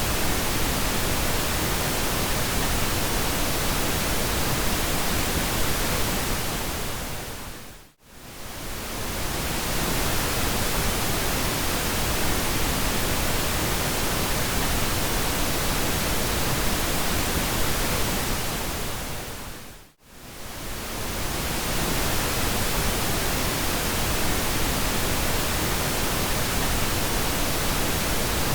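Steady pink noise, an even hiss spread across all pitches. It fades briefly to near silence and back up twice, about eight seconds in and again about twenty seconds in.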